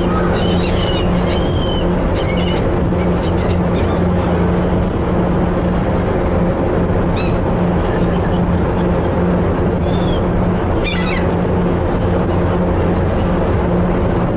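Seagulls calling in short, arched cries, several in the first few seconds and a few more later, over the steady drone of the car ferry's engine.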